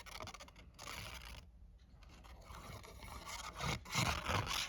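Cardstock being handled and pressed down, rubbing and scraping against the work surface in short patches, getting louder near the end.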